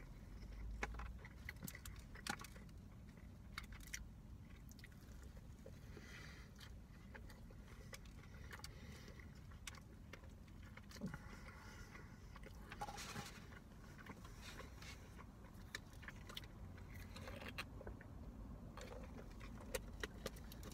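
A person quietly chewing a burger, with scattered small clicks and short rustles over a low steady rumble.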